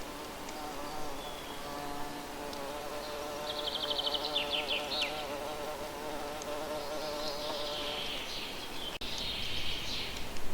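A flying insect buzzing close by, a wavering hum that fades out about eight seconds in, with birds singing over it: a quick trill a few seconds in and more song near the end.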